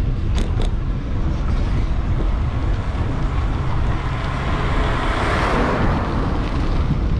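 Street traffic heard from a moving bicycle over a steady low rumble of wind on the microphone. A vehicle passes at about five to six seconds, swelling and fading. Two short high squeaks come in the first second.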